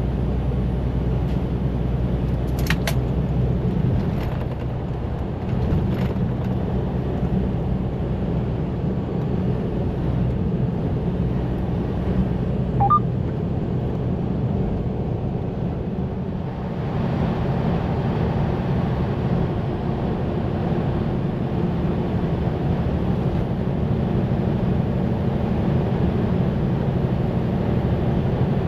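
Semi truck's diesel engine and road noise heard inside the cab, a steady low drone. There are a couple of sharp clicks early and a brief high chirp about halfway, and the drone grows fuller from about two-thirds of the way in.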